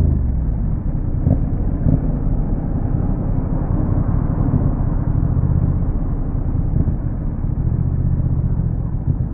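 Yamaha MT-07's parallel-twin engine running through a Roadsitalia aftermarket exhaust: a deep, steady exhaust note at low revs with slight rises and falls in level.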